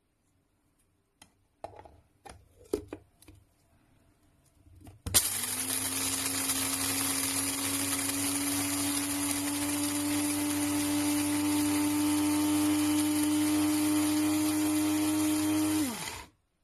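Amazon Basics electric coffee grinder running for about eleven seconds, a steady whine whose pitch creeps slightly upward, then winding down with a falling pitch when switched off. A few clicks and knocks of handling come before it starts.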